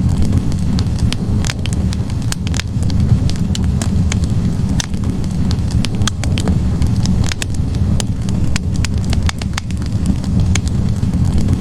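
Wood fire in a fireplace: logs burning with a steady low rumble of flames and frequent sharp, irregular crackles and pops.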